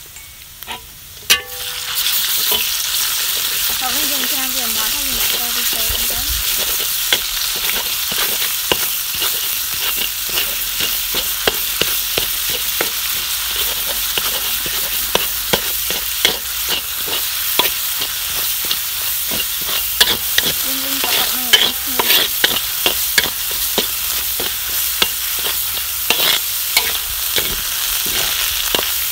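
Chopped shallots and garlic sizzling in hot oil in a large wok, stirred with a metal spatula that scrapes and clicks against the pan. The sizzle starts about two seconds in, just after a sharp knock, and holds steady from then on.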